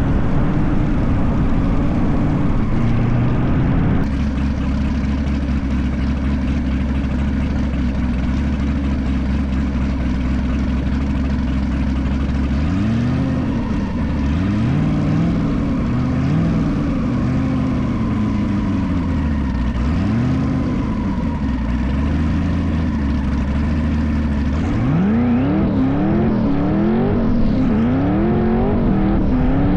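LS V8 engine of a twin-turbo LS-swapped BMW E36 drag car running at a steady pitch, then revving up and down repeatedly from about twelve seconds in, with quicker, sharper revs near the end.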